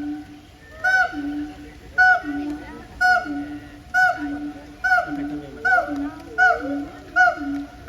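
A bird calling over and over, about once a second and slightly faster toward the end; each call is a short hooked note followed by a lower, steady honk-like note.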